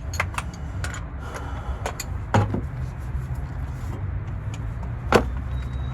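Scattered sharp metal knocks and clinks of tools on a truck's underside during a transmission removal, the two loudest about two and a half and five seconds in, over a steady low hum.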